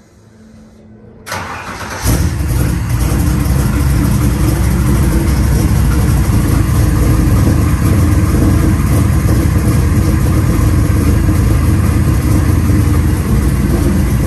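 Classic Ford Mustang's 347 stroker small-block V8 with FiTech fuel injection, running on E85, cranking briefly and firing about two seconds in, then running loud and steady. It is starting after sitting for about two months.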